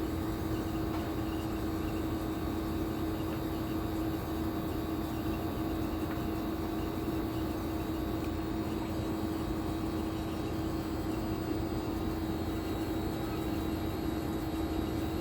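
A steady, unchanging hum with one held tone, like a running appliance or motor.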